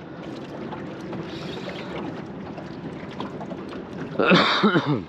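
Steady wind and water noise around a small boat on the river. Near the end it is broken by a loud, sudden sound lasting about a second, with a pitch that falls.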